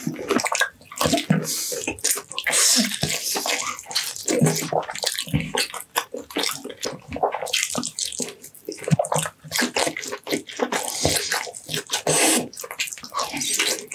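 Close-miked eating sounds: wet chewing and lip-smacking of roast meat and rice, coming in quick, irregular bursts.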